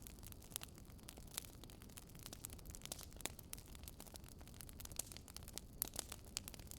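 Quiet fireplace fire crackling: irregular sharp pops and snaps over a low, steady rumble.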